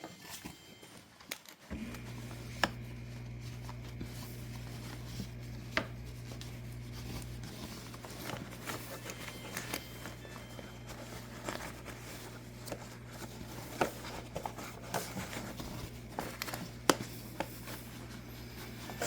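Paper towel rubbing and scraping as water is wiped out of a dishwasher's reservoir, with scattered light knocks and scrapes. A steady low hum comes on about two seconds in.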